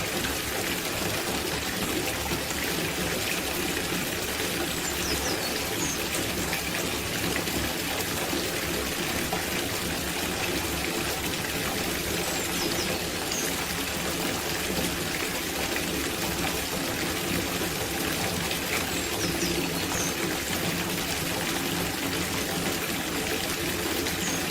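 Water pouring steadily into a copper bathtub as it fills. A few faint high chirps come through now and then.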